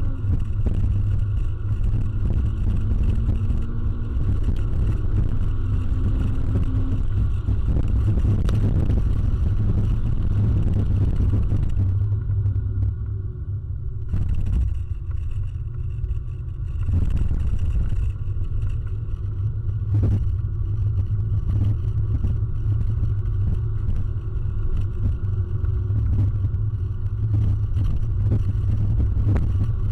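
2006 Toyota Corolla XRS's 1.8-litre four-cylinder engine running under load, heard from inside the cabin, with a steady low drone and road rumble throughout. The engine sound eases for a couple of seconds about twelve seconds in, and a few short knocks cut through.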